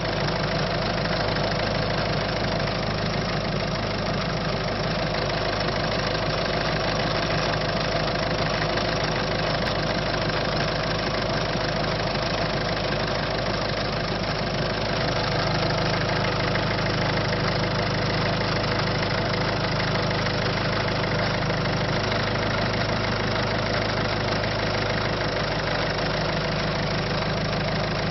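Citroën C5's 1.6 HDi four-cylinder turbodiesel engine idling steadily. It is the running noise of an engine whose owner complains of a lack of power.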